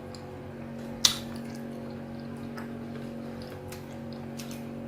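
Close-up eating sounds: scattered wet mouth clicks and smacks from someone eating amala and soup, with one sharp, louder click about a second in, over a steady low electrical hum.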